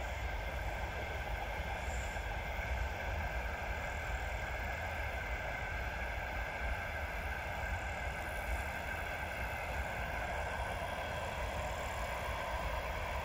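Freight train's wagons rolling past at a distance, a steady low rumble of wheels on rails.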